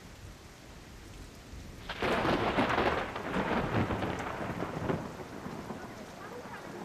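Thunder: a loud clap about two seconds in that rolls on for about three seconds, then fades back to a low rumble.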